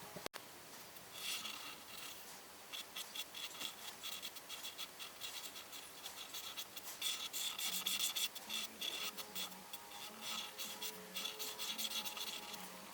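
A coloring pencil or marker scratching on paper in quick back-and-forth strokes, busiest and loudest about seven to eight seconds in.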